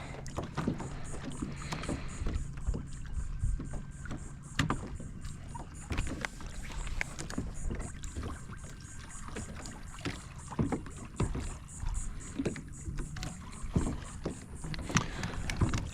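Irregular small knocks and clicks of gear being handled aboard a kayak, over a low steady background noise.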